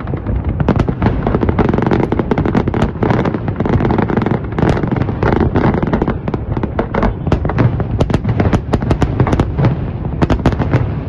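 Fireworks display going off in a dense, continuous barrage: a steady deep rumble of booms with many sharp cracks and bangs in quick succession.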